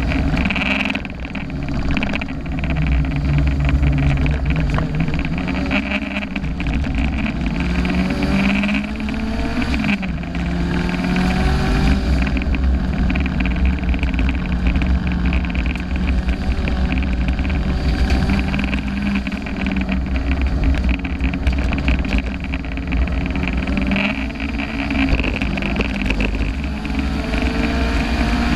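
Turbocharged car engine under hard acceleration on a circuit lap, revs climbing and dropping again and again with gear changes and lifts for corners, heard from inside the car.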